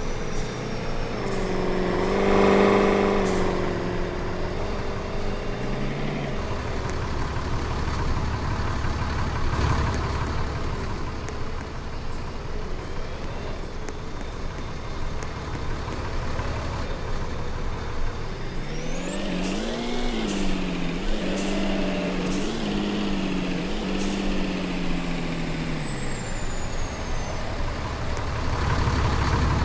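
Truck engine running, louder about two seconds in, its pitch climbing about two-thirds of the way through, wavering, then sinking again near the end. A thin high whine runs above it.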